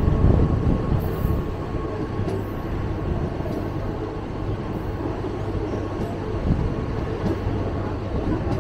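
Mumbai suburban local train running along the track, heard from an open carriage doorway: a steady rumble of wheels on rail, with a few faint clicks now and then.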